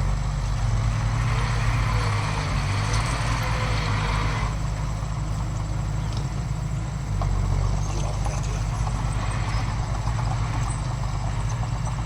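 Heavy diesel earthmoving machinery running steadily, with a hiss over the engine for the first few seconds and a brief dip in engine level about seven seconds in.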